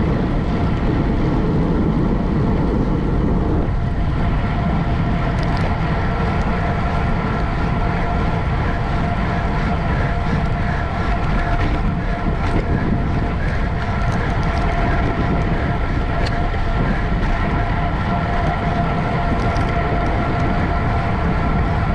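Steady wind rush on the microphone of a camera moving with a road bike in a criterium race, with a constant whirring hum from the bike's wheels and drivetrain.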